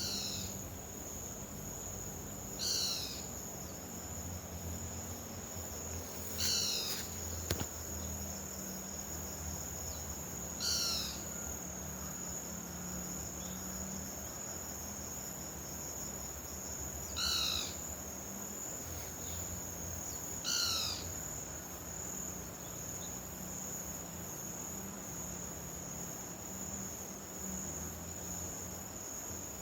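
Outdoor insect chorus, a steady high-pitched drone like crickets, with a bird repeating a short call of a few quick falling notes six times, every few seconds. A faint low hum runs underneath.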